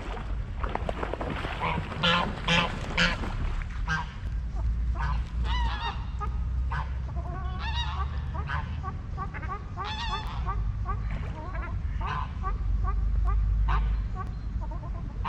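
Waterfowl calling: many short, repeated honking calls from several birds, loudest in a cluster about two to three seconds in, over a steady low rumble.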